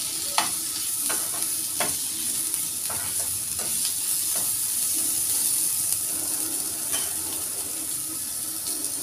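Onion-tomato masala sizzling in oil in a frying pan while a steel spoon stirs it, with irregular clinks and scrapes of the spoon against the pan.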